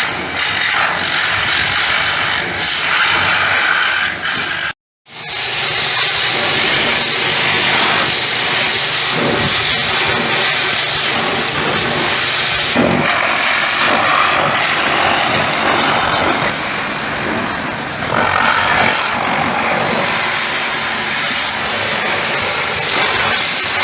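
High-pressure washer jet spraying water onto a mini tractor: a loud, steady hiss with splashing. It drops out for a moment about five seconds in.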